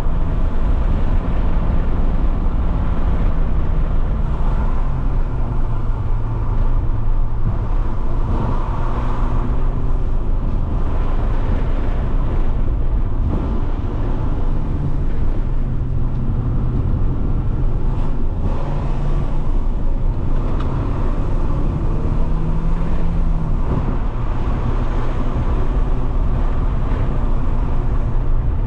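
Alfa Romeo 156 1.8 Twin Spark's four-cylinder engine running while the car is driven, over steady road noise. The engine note holds a pitch, then shifts up or down several times, as with changes of speed and gear.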